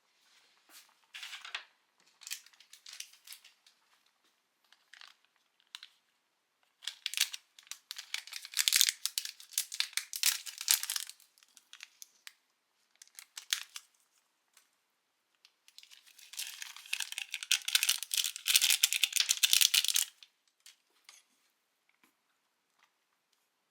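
Plastic packaging of instant food being crinkled and torn open: short rustles at first, then two longer, louder spells of crinkling about seven and sixteen seconds in.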